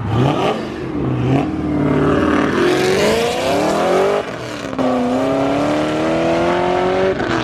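A car accelerating hard away: engine revs climb steadily, drop briefly about four seconds in as it shifts up, then climb again.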